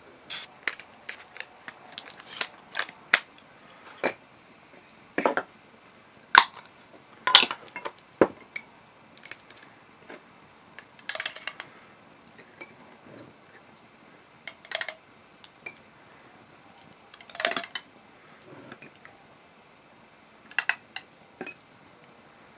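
Scattered knocks and clatter of cookware and utensils being handled, with a few longer scraping rattles.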